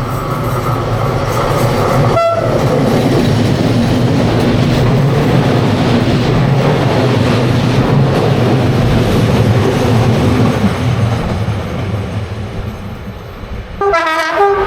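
A train passing close by: a steady horn note ends about two seconds in, then the locomotive and wagons rumble past with some clatter of wheels on rail joints. The rumble fades, and near the end a horn sounds again in a few short blasts.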